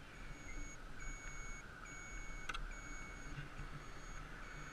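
Electric bike's turn-signal beeper beeping steadily, a little faster than once a second, left on. Under it run a steady high hum and a low rumble, with a single click about halfway through.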